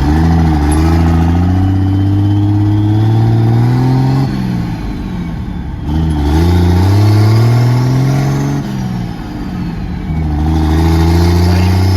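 P-pumped 24-valve Cummins diesel truck accelerating hard on nitrous through the gears: the engine note climbs, drops at a shift about four seconds in, climbs again, drops near nine seconds, and starts climbing once more near the end.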